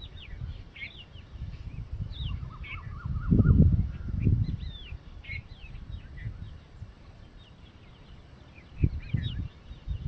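Small birds chirping: many short, quick high chirps, with a brief fast warbling trill about two to three seconds in. Patches of low rumbling noise on the microphone come and go over them, loudest about three and a half seconds in and again near the end.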